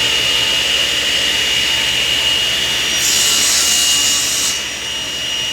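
Power saw running with a steady high whine, cutting through a wooden board; about three seconds in a brighter hiss of the cut lasts a second and a half, then the sound eases off a little.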